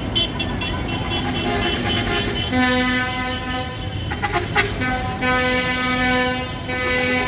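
Vehicle horns honking in long held blasts, one after another with short gaps, mostly on one steady low note, with a brief rattling clatter about four seconds in.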